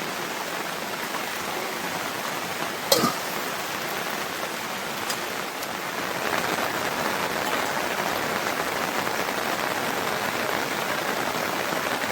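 Steady rain falling, a little heavier from about halfway through, with one sharp knock about three seconds in.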